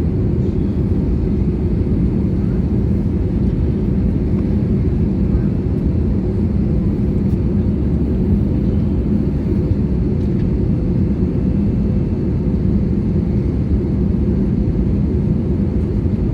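Steady cabin noise inside an Airbus A320neo on final approach: a constant low rumble of engine and airflow with a faint steady hum, unchanging throughout.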